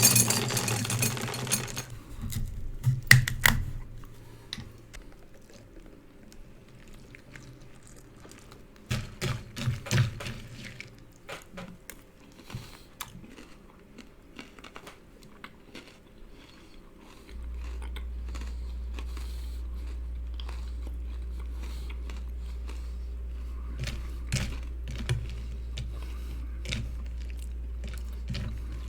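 Small handling noises of a bowl of crunchy cereal being got ready and eaten: rustling and crinkling at first, then scattered clicks, knocks and crunches. A steady low hum comes in suddenly about two-thirds of the way through.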